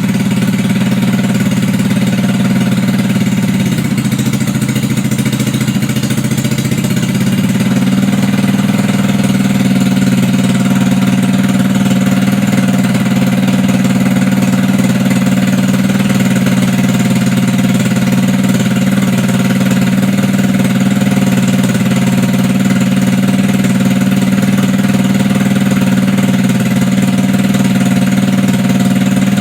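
GY6 150cc single-cylinder four-stroke scooter engine, fed by a PWK 28 mm slide carburetor, running steadily on a bench test. Its revs sag slightly a few seconds in, then settle and hold.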